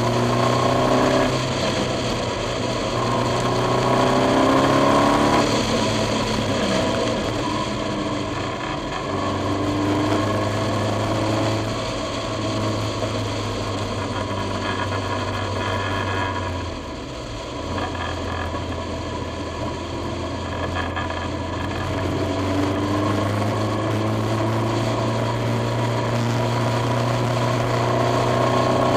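KTM X-Bow's turbocharged 2.0-litre four-cylinder engine driven hard on track, its pitch climbing through the gears in repeated pulls in the first few seconds and again over the last several seconds, steadier in between, over a steady low drone.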